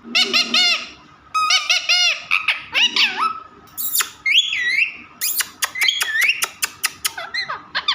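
Pet parrot calling: a quick run of short, arching squawky notes, then whistled glides and a rapid string of sharp clicks and chirps.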